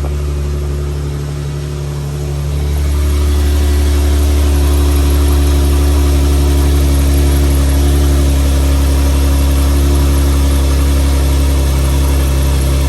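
Infiniti G37's 3.7-litre V6 idling steadily with a deep, even hum, freshly refilled after an oil change. It gets a little louder about three seconds in.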